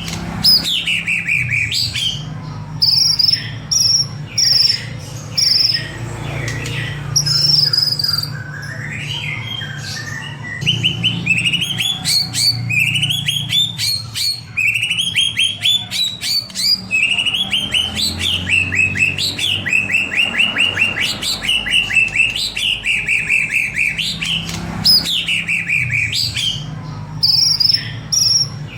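White-rumped shama singing continuously: loud clear whistles that slide up and down, mixed with fast runs of repeated notes, over a steady low hum.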